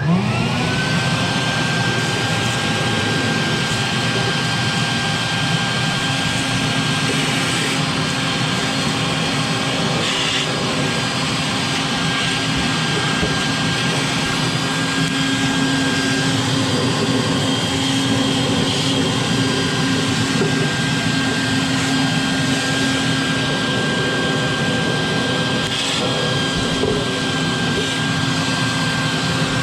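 Vacuum cleaner switched on, its motor whine rising to speed within the first second and then running steadily while it cleans buildup out of a furnace.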